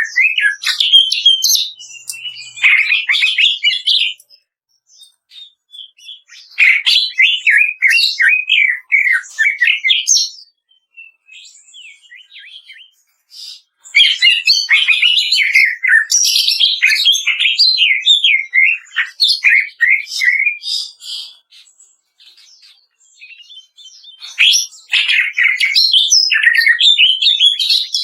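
Cucak ijo (green leafbird) singing loud bouts of rapid, crackling 'kretekan' phrases, fast chattering notes that jump up and down in pitch. Four bouts are separated by short pauses holding only a few scattered notes.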